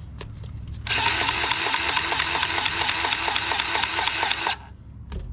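A handheld power tool running in one burst of about three and a half seconds, a whine with a fast pulsing rhythm, starting about a second in and cutting off near the end.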